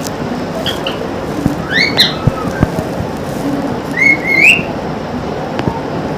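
Pet parrot giving short rising whistles, one a little under a second in, a pair at about two seconds and another pair at about four seconds.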